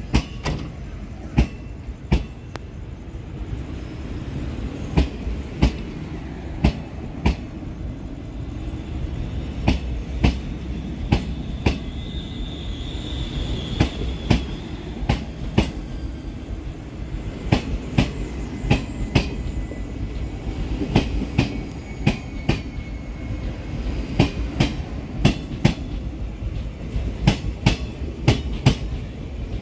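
Express train coaches rolling past, wheels clacking over the track in an irregular run of sharp clicks over a steady low rumble, with a faint high wheel squeal briefly near the middle.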